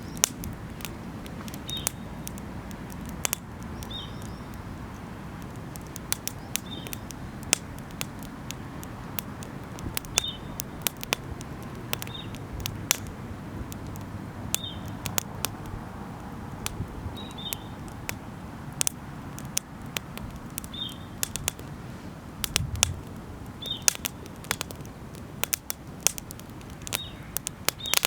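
Wood campfire crackling, with many sharp pops and snaps over a low steady rumble. A bird's short high chirp repeats every two to three seconds.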